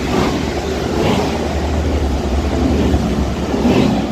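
Transpennine Express Class 185 diesel multiple unit passing through the station at speed: a loud, steady rumble of engines and wheels with a deep low drone.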